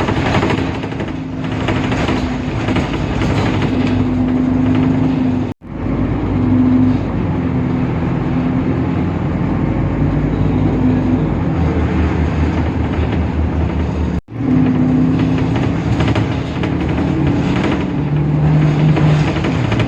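Temsa Avenue LF city bus running, its DAF PR 228 diesel engine and driveline making a steady drone whose tones shift in pitch. The sound drops out abruptly and very briefly twice.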